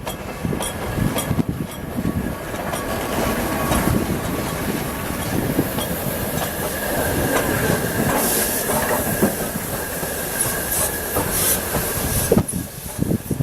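A train rolling past on the track, its wheels squealing in a steady high tone and clicking over the rail joints.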